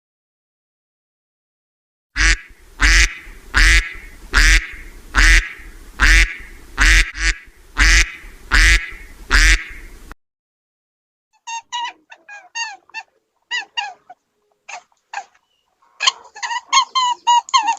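A duck quacking about a dozen times in an even rhythm, roughly one quack every three quarters of a second. After a short pause a run of short, high peeps follows, growing denser toward the end.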